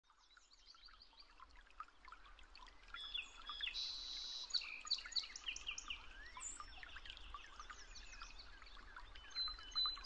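Birdsong: many small birds chirping, trilling and whistling over one another, fading in over the first few seconds and busiest a few seconds in.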